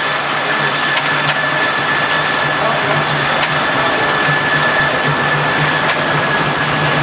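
Sawmill machinery running steadily: a constant low hum with a faint steady high tone and a few light clicks.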